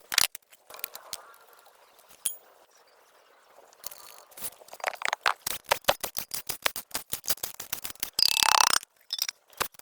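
Rapid, irregular sharp clicks and knocks, coming thick at the start and again through the middle, with a short harsh burst of noise near the end.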